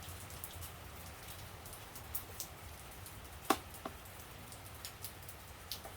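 Steady rain falling outside, with scattered drips tapping on a surface. A sharp click about three and a half seconds in, and a smaller one just after.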